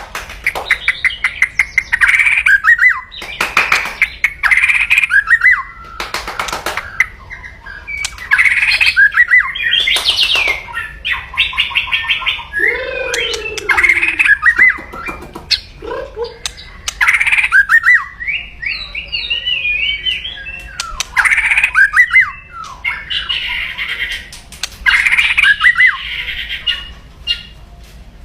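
White-rumped shama (murai batu) singing an aggressive kretekan: loud, quick runs of harsh clicking chatter, phrase after phrase with short gaps. It is the kind of call used to provoke a rival shama.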